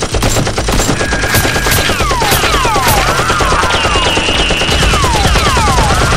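Rapid automatic gunfire sound effects, a dense fast rattle of shots, with repeated falling whistles like bullets whizzing and ricocheting laid over it from about a second in.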